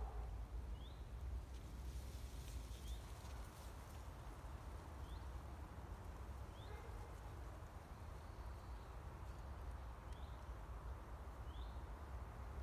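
Outdoor ambience: a low wind rumble on the microphone, with a small bird repeating a short, high, rising call every second or two.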